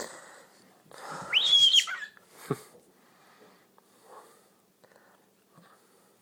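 A pet bird gives one short, harsh call about a second in that turns into a high, held whistle, followed by a single brief tap.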